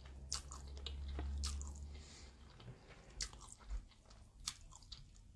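A person chewing and slurping Mi Goreng instant noodles close to the microphone, with sharp wet mouth clicks and smacks about once a second. A low rumble runs through the first two seconds.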